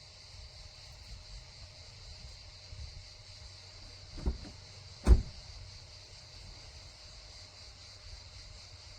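Two dull thumps a little under a second apart, the second louder and sharper, over a steady high hiss.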